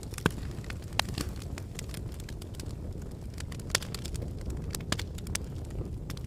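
Log fire burning in a fireplace: a steady low rumble of flame with constant crackling and a few louder pops, about a third of a second in, at one second, near four seconds and near five seconds.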